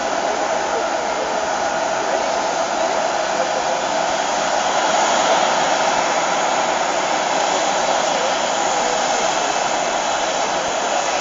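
Boeing 737-700's CFM56-7B turbofan engine running steadily during start-up: an even rushing noise with a faint whine over it, swelling slightly about five seconds in.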